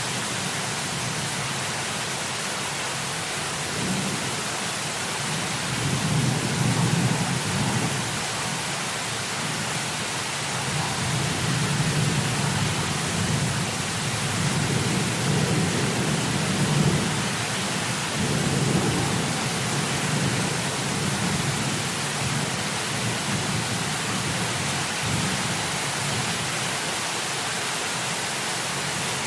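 Heavy rain falling in a steady hiss, with low thunder rumbling and rolling in several swells through the middle.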